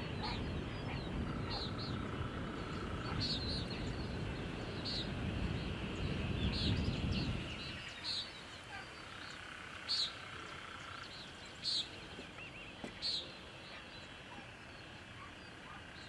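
Small birds giving short high chirps every second or two, with a steady high trill twice, over a low background rumble that drops away about halfway through.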